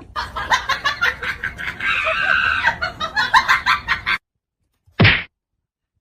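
Chickens clucking and squawking in a rapid flurry for about four seconds, then it cuts off suddenly. A single short, loud burst of noise follows about a second later.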